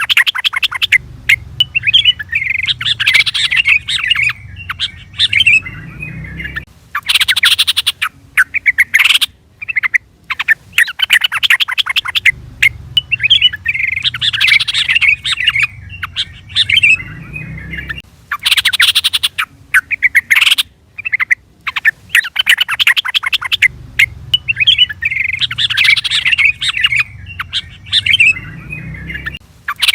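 Yellow-vented bulbul (trucukan) calling: loud, rapid chattering and bubbly phrases with short breaks between them. The same sequence repeats about every eleven seconds, as a looped recording does.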